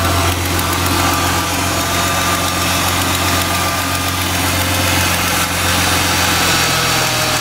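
A New Edge Ford Mustang's V6 engine idling steadily, heard close to the open engine bay; the idle note steps up slightly about six and a half seconds in.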